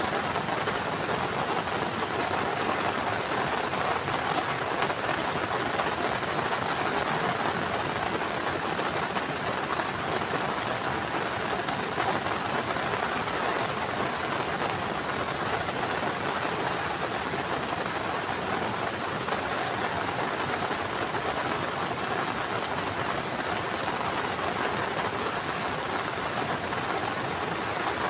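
Heavy rain falling steadily, a dense even hiss of drops with a few faint sharper ticks.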